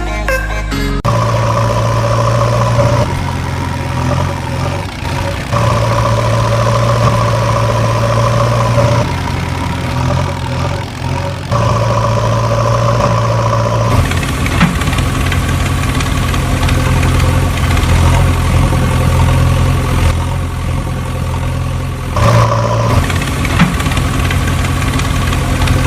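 Heavy engine idling steadily, its tone jumping abruptly several times as if cut between takes.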